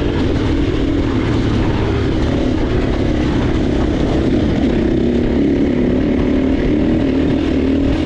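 Motocross bike engine running hard at fairly steady revs.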